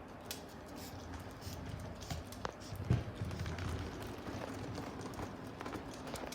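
Irregular clicks and taps over a steady hiss from a French bulldog puppy moving about, with a louder thump about three seconds in.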